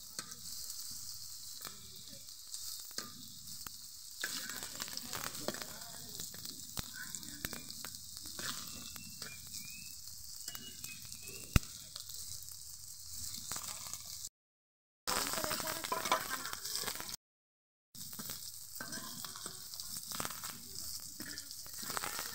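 Battered okra fritters frying in oil in an iron karahi: a steady sizzle with crackling, and a metal spatula scraping against the pan as the fritters are turned, with one sharp tap a little over halfway through. The sound drops out twice, each time for under a second.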